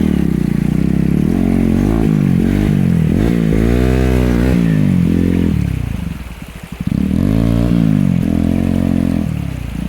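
Motorcycle engine running under load, its pitch rising and falling as the throttle is worked; the revs drop off about six seconds in and pick up again a second later.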